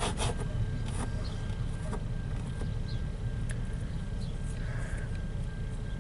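Slow-moving CN freight train rolling past the crossing, heard from inside a stopped car: a steady low rumble with a few faint clicks and a thin steady high whine through most of it.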